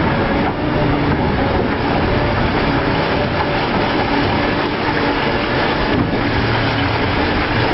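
Heavy diesel construction machinery running steadily, a loud continuous engine drone mixed with mechanical clatter.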